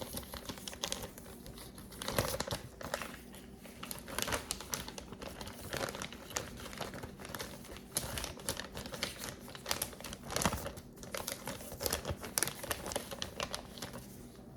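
Plastic bag crinkling and rustling in irregular bursts as a PCIe adapter card is pulled out of it.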